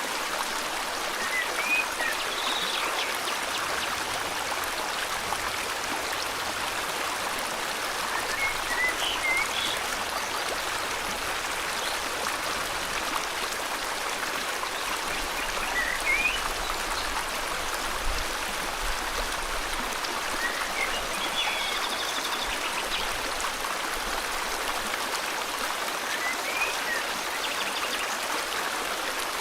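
Steady rush of river water flowing, with a bird giving short chirps about every five or six seconds, one of them a quick trill.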